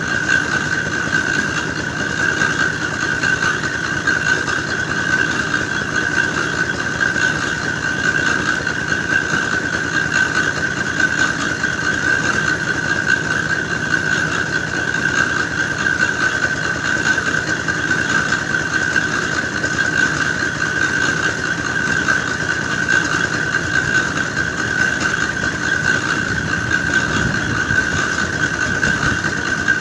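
Engine-driven clay-grinding machine mixing soil for brick dough, running steadily with a constant high-pitched squeal over the engine.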